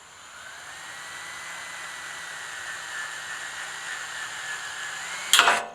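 Electric drill spinning up and running steadily with a constant motor whine, boring a pilot hole through two thicknesses of metal hoop tubing. A loud, brief clatter near the end, just before the motor stops.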